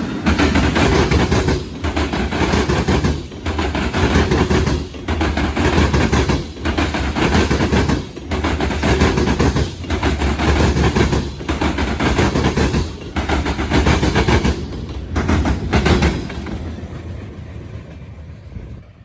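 Freight train passing fast and close, its cars going by in a loud, continuous rumble that dips about every second and a half, then fading away near the end.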